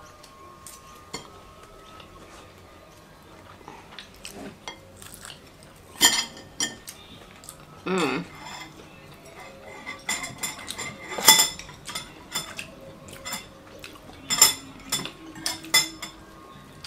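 Chopsticks clicking and scraping against ceramic plates and a metal wire rack while eating, in irregular sharp clinks that come thicker in the second half.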